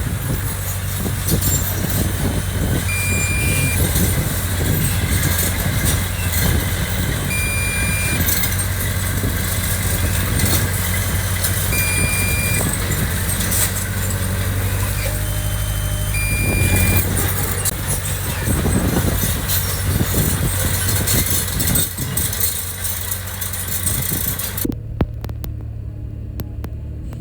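Heavy construction machine's engine running steadily with a low drone, under scattered clanks. A short high beep from a warning alarm sounds about every four to five seconds. Near the end the higher sounds drop away, leaving only the low engine rumble.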